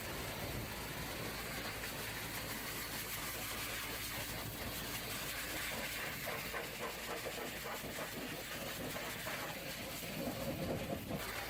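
Pressure washer spraying water against a dump truck, a steady hissing spray with a flickering, uneven texture as the jet moves over the surfaces.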